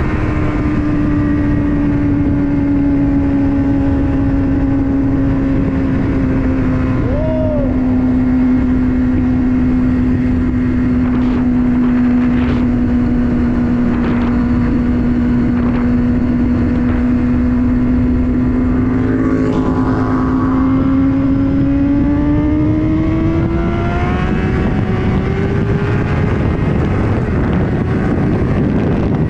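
Honda CBR600RR inline-four engine holding steady high revs while the motorcycle cruises, its pitch sagging slowly, then climbing as it speeds up in the last third. Heavy wind noise runs underneath.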